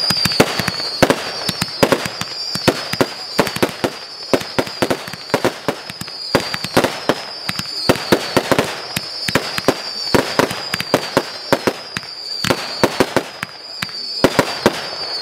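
Rogue Viper fireworks going off: a near-continuous high whistle that falls slightly in pitch again and again, over many sharp cracking bangs, several a second, with a brief lull near the end before a fresh cluster of bangs.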